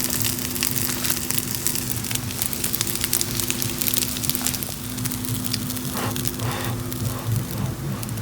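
Wood fire crackling and popping in a small firebox stove, a dense run of irregular snaps over a steady low hum.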